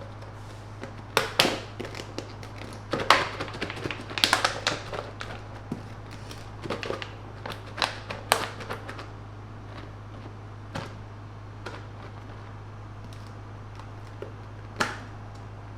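Scattered sharp clicks, taps and knocks of objects being handled, thickest in the first half and sparse later, over a steady low hum.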